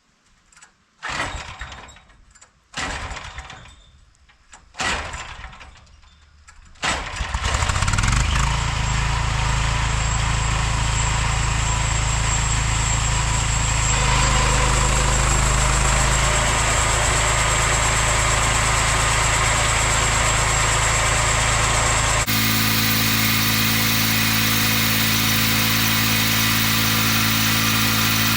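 Small gasoline engine on a homemade band sawmill being started. Three short tries fail, then it catches on the fourth and settles into a steady run. Its note changes abruptly about two-thirds of the way through.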